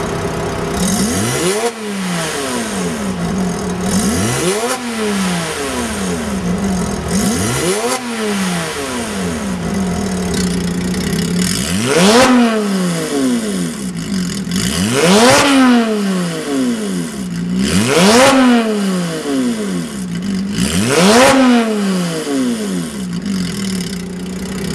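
Early Porsche 987 Boxster flat-six idling through a Kreissieg valvetronic exhaust and blipped seven times, each rev climbing fast and falling straight back to idle, the last four blips louder.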